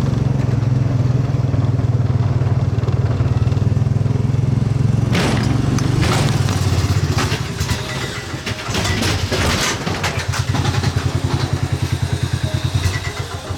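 A vehicle engine running loudly with a steady low drone. About five seconds in, knocks and rattling noise join it. Later the engine note pulses rapidly in loudness.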